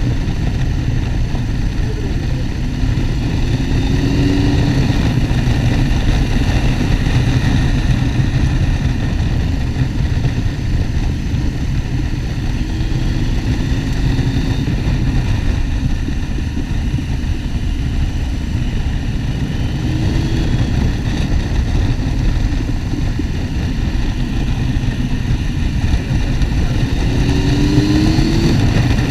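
Motorcycle being ridden: steady, heavy wind and road noise, with the engine note rising briefly a few times as it speeds up.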